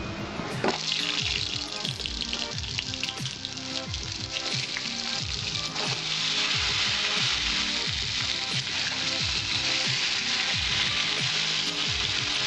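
Pointed gourd pieces sizzling as they fry in hot mustard oil in a kadai. The sizzle starts about a second in and grows louder around halfway.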